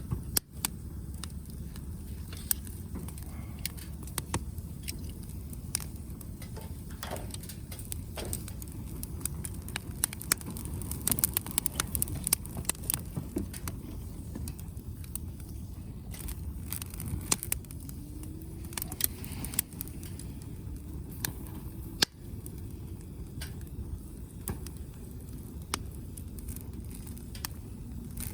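Wood fire crackling, with sharp pops and snaps at irregular intervals over a steady low rumble.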